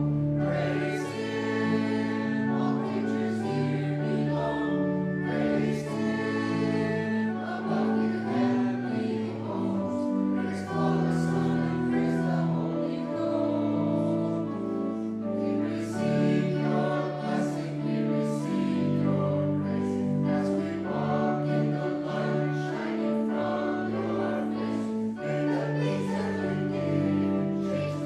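Slow church music of held chords that change every second or two, with a choir-like sound, closing the service after the benediction.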